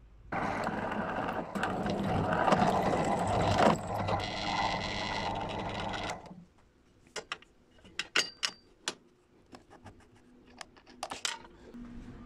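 A power tool runs for about six seconds, its sound changing partway through, then stops. Scattered clicks and knocks follow.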